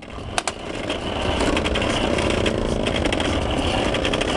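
Toy bubble-blowing lawnmower running as it is pushed along: a steady motor-like sound, with rapid clicking throughout.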